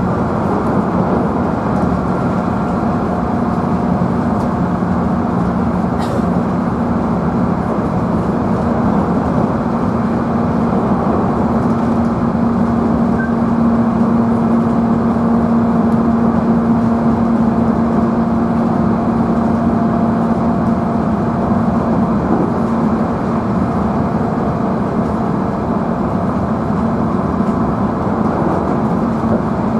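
Steady running sound heard inside the motor car of a JR Central 311 series electric train at speed: a constant hum with rail and wheel noise. The hum is a little louder around the middle.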